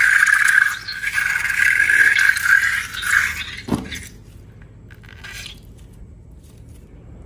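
Air hissing out of a stretched balloon neck with a steady high squeal, stopping a little over three seconds in. A short falling squeak follows just before the four-second mark, then only faint handling.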